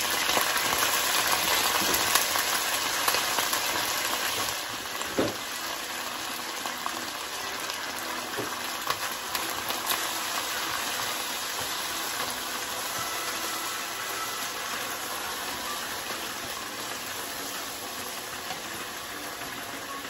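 Wet, freshly washed spinach frying in hot oil in a pan: a loud sizzle that eases a little after about four and a half seconds and then goes on steadily, with a few light knocks.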